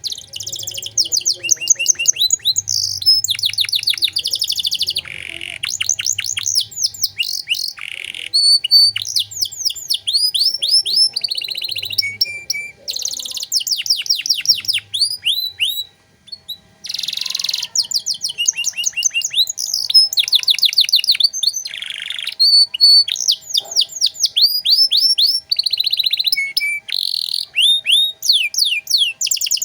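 Domestic canary singing a long, fast song of rolling trills, each made of quick downward-sweeping notes, with a brief break about sixteen seconds in.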